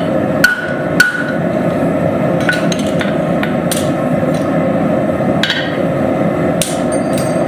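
Hand hammer striking hot steel on an anvil: about seven irregularly spaced blows with a short metallic ring, the one about a second in the loudest. Under them runs a steady rushing noise.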